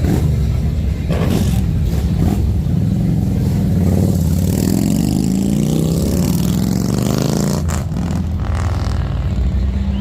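Motorcycle engine running with a steady low rumble, revved up and back down about halfway through.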